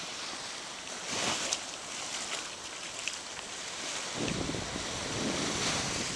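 Surf washing onto a beach in a steady rush, with wind rumbling on the microphone, strongest from about four to six seconds in.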